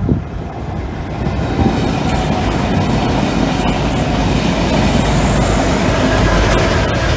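Broad gauge paper freight train rolling past: a steady rumble of wheels on rail with clicks over the rail joints. The rumble builds over the first couple of seconds, then holds.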